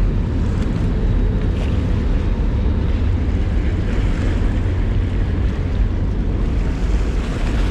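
Steady low rumble and rushing noise, with wind buffeting the microphone.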